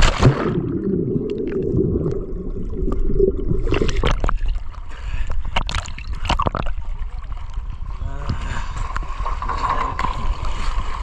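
Water sloshing and gurgling against a boat over a steady low rumble, with a few sharp knocks between about four and seven seconds in.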